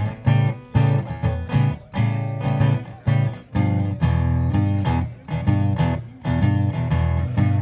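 Acoustic guitar strummed in a steady rhythm, about two strokes a second, chords ringing between strokes.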